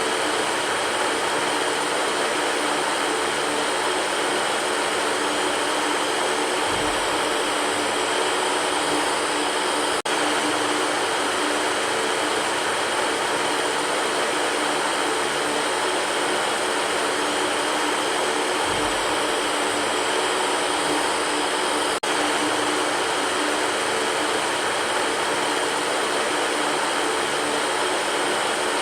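Electric fan running steadily: an even rushing whoosh of moving air with a faint low hum beneath it. Two very brief dips in the level, about ten seconds in and again about twenty-two seconds in.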